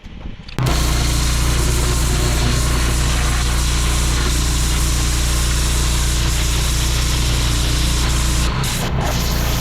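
Pressure washer running: a steady engine drone under the hiss of a high-pressure water jet, cutting in suddenly about half a second in. The hiss briefly drops twice near the end.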